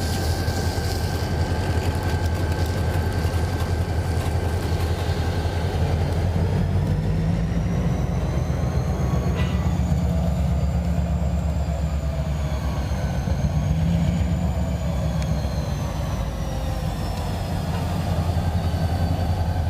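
Escanaba & Lake Superior diesel-electric locomotives (EMD SD40-2s and an SD9) running close by with a steady heavy engine rumble. Through the middle a faint high whine rises and then falls.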